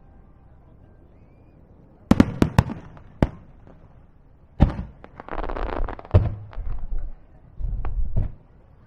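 Aerial fireworks shells bursting. About two seconds in comes a cluster of sharp bangs, followed by further single and grouped booms. A spell of crackling hiss comes just after halfway.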